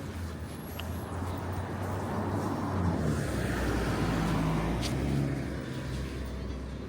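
A car driving past, its engine and tyre noise swelling to a peak about three to five seconds in and then fading away.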